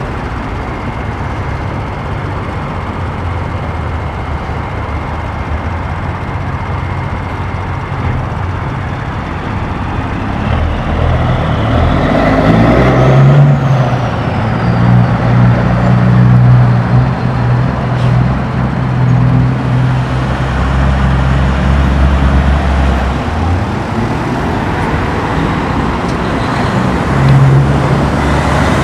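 Diesel semi-truck engines pulling out, one truck growing louder from about ten seconds in as it accelerates past, its engine note stepping up and down, then easing off.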